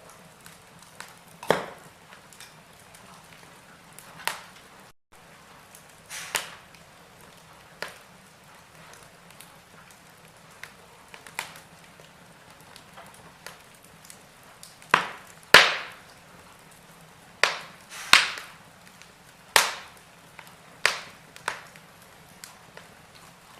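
Wood fire crackling in a fireplace: irregular sharp pops and snaps, about a dozen, coming more often in the second half, over a faint steady hiss.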